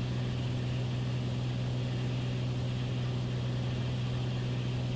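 Beechcraft Bonanza's piston engine and propeller droning steadily in cruise descent, heard inside the cockpit as an even low hum over a constant hiss.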